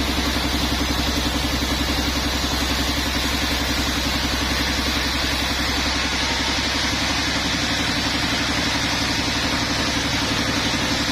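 An engine idling steadily, with an even rapid pulse.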